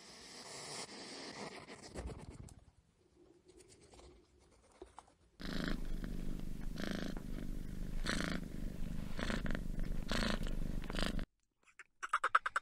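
Domestic cat purring steadily in a rhythmic pulse, starting about five seconds in and cutting off suddenly a second before the end.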